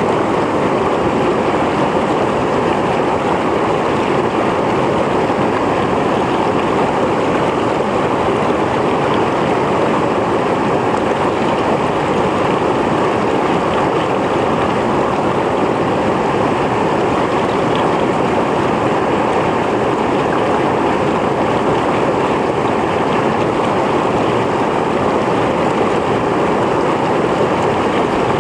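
Mountain stream flowing over rocks: a steady, loud rush of water with no change over the whole stretch.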